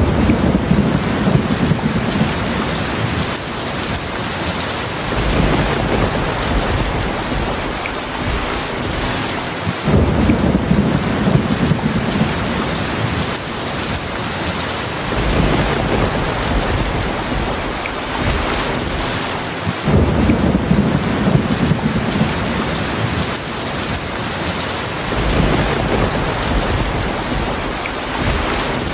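Heavy rain falling steadily, with low rumbles of thunder that swell up roughly every five seconds, two of them starting more sharply about ten and twenty seconds in.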